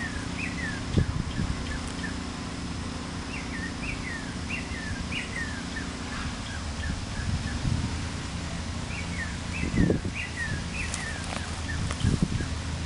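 A songbird singing runs of quick, down-slurred whistled notes, three phrases over the few seconds, over a steady low rumble, with a few dull low bumps.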